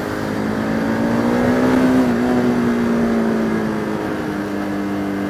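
Pulsar RS200 motorcycle's single-cylinder engine running under way, heard from a helmet camera; its pitch rises a little over the first two seconds, then eases back and holds steady.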